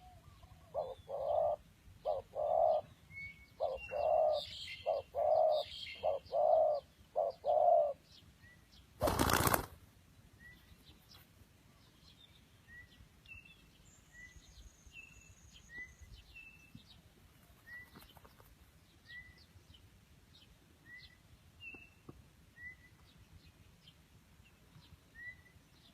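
A dove cooing in a quick series of about ten short, low notes, followed near nine seconds in by a brief loud rush of noise. After that a small bird gives a faint short chirp roughly every second and a half.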